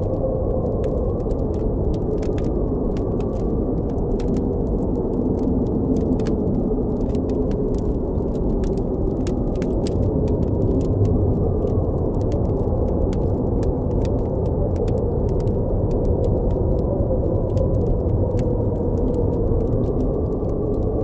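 Blizzard wind rushing steadily and low, with a campfire crackling over it in frequent small sharp pops.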